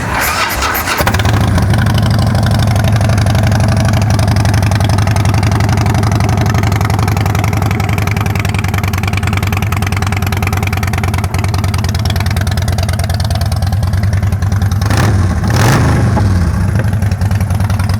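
2006 Harley-Davidson Dyna Street Bob's Twin Cam 88 V-twin, through Vance & Hines exhaust, catching in the first second and settling into a steady idle, with a short blip of the throttle near the end.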